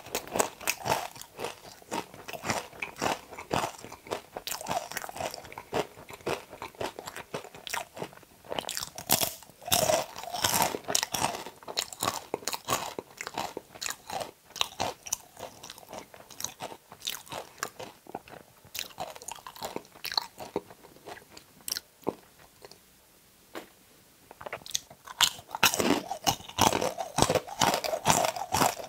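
Close-up crunching and chewing of okra pods, with irregular crisp bites, quieting briefly a little past the middle.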